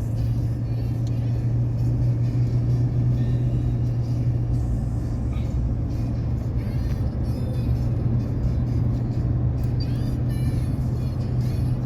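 Engine running steadily: a constant low drone with a rumble underneath.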